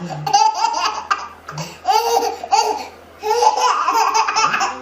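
A baby laughing hard in repeated high-pitched bursts, with a short pause about three seconds in.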